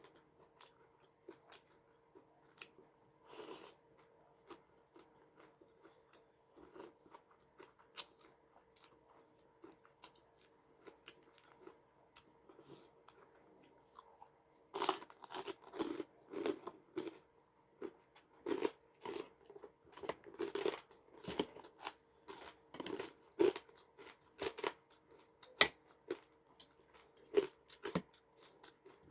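A person chewing food close to the microphone, with only scattered chews at first and then steady crunching from about halfway through, as of crisp pork rinds or raw vegetables. A faint steady hum runs underneath.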